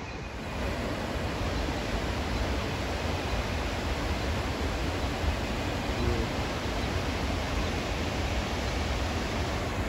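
Water rushing over a river waterfall, a steady noise that swells slightly about half a second in.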